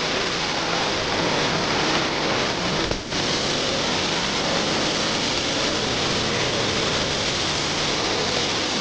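High-pressure washer spraying water onto a vehicle, a steady hiss with a brief break about three seconds in.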